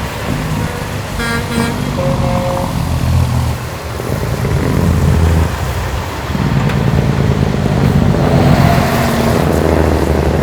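Heavy truck engines running with a low rumble, with short horn toots about a second in and again near the end.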